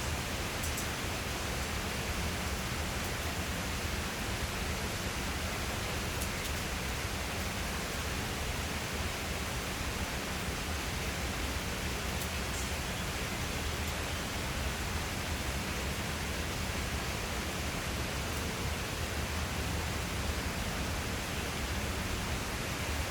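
Steady rain falling, an even hiss with a few faint drop ticks; no thunder in this stretch.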